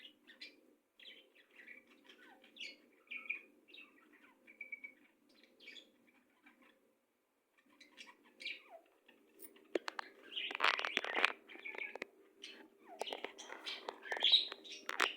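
Several birds chirping and tweeting in short high calls, scattered at first, then louder and busier about two-thirds of the way in.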